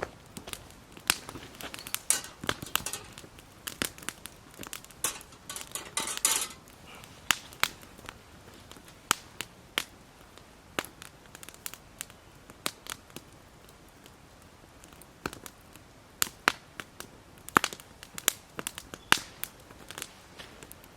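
Irregular sharp crackles and snaps of dry wood, thickest in the first several seconds, with a short crumpling rustle about six seconds in.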